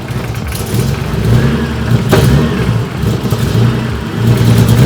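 Nissan Skyline R31 drift car's engine running unevenly and being revved, on its first run after sitting with a dead battery and no fuel. A sharp click is heard about two seconds in.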